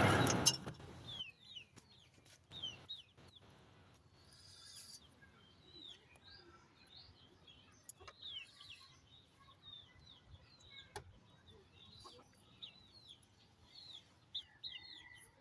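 Faint chirping of small birds: many short, falling chirps throughout, with a few faint clicks. A loud electric meat grinder stops right at the start.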